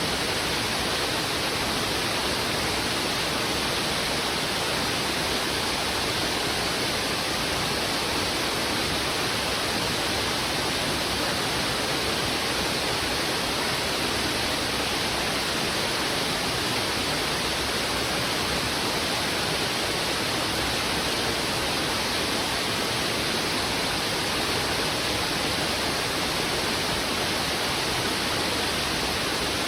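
Heavy river water rushing steadily over rocks: a dense, even rush with no let-up or separate splashes.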